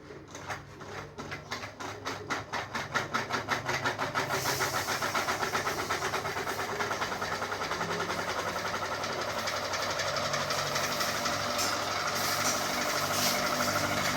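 Ceiling fan starting up: a rhythmic beating from the spinning blades speeds up over the first four seconds, then settles into a steady fast whir.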